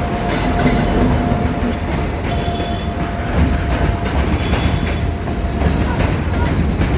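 A train running on the track: a steady loud rumble of wheels on rail with clickety-clack, and a thin steady whine above it that drops out briefly about two seconds in.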